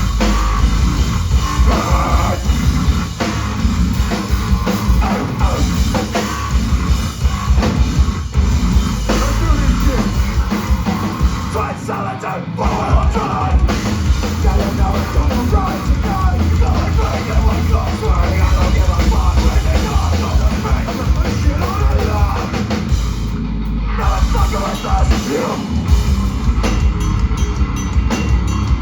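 Live rock band playing loudly, with a pounding drum kit and heavy bass under the guitars.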